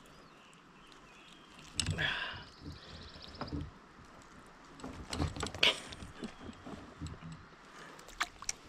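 Irregular knocks, clicks and rattles of handling in a kayak. About two seconds in there is a short run of fast, even ticking.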